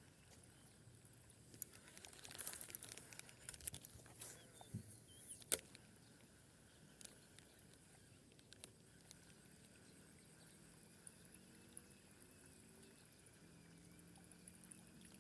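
Near silence: faint outdoor background with a steady high hiss, broken by a short rustle about two seconds in, a sharp click about five seconds in, and a few faint clicks later.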